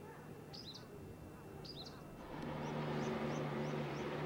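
A bird calls repeatedly, a short high call about once a second. A little over two seconds in, the background turns louder with a steady low hum, and quicker, smaller chirps sound above it.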